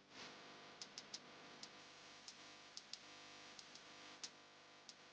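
Near silence: a faint steady hum with about a dozen soft, irregular high ticks.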